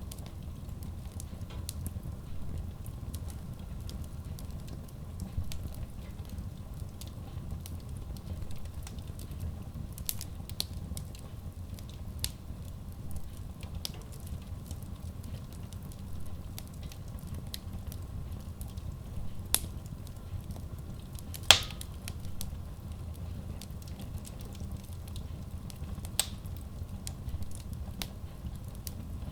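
Logs burning in a Kratki Koza K6 stove-fireplace: a steady low rumble of flame with scattered sharp crackles and pops, one much louder pop about three quarters of the way through.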